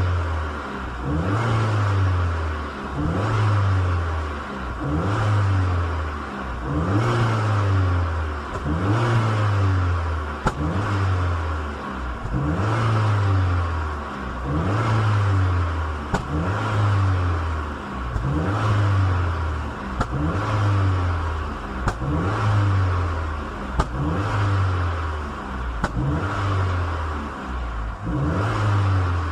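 Car engine revved up and let fall back again about every two seconds, over and over, during a hydrogen carbon-cleaning treatment of the engine.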